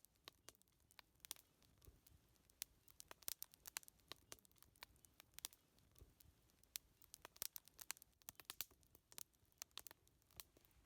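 Wood fire crackling quietly, with many irregular sharp snaps and pops over a faint low hiss.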